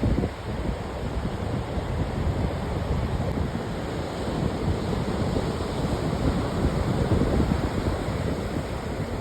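Ocean surf washing steadily, with wind buffeting the microphone in uneven gusts.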